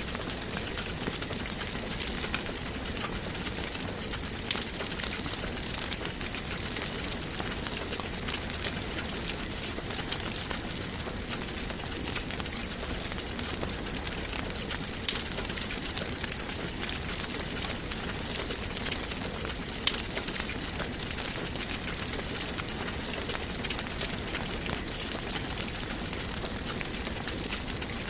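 Wood fire crackling in a fireplace: a steady hiss full of small, sharp pops, with a couple of louder pops about halfway through and again a few seconds later.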